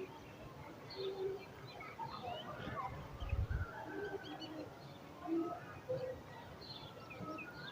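Birds chirping and calling in short scattered notes, with a brief low thump about three seconds in.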